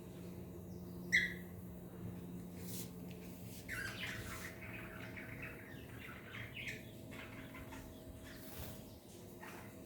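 Cockatiels chirping: one short, sharp call about a second in, then a run of softer chirps and calls in the middle.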